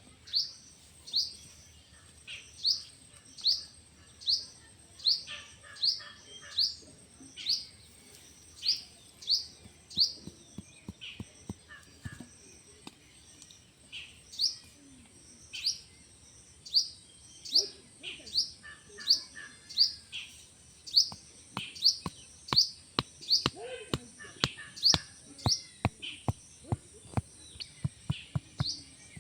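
A small bird chirping over and over, each chirp short and sharply falling, about once or twice a second. Sharp clicks join in during the second half, over a faint steady high whine.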